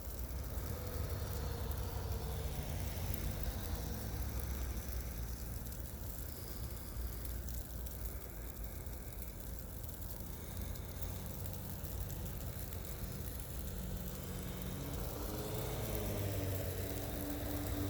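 Car engine and road noise while driving, a steady low rumble. Near the end a higher engine tone rises and then holds.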